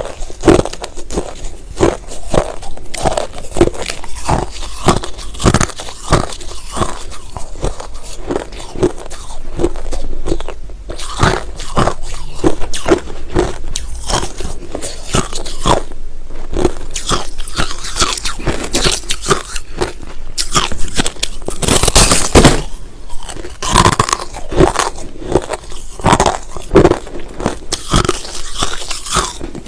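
Close-up chewing of white crushed ice: a fast, continuous run of loud, crunchy bites as the ice cracks between the teeth.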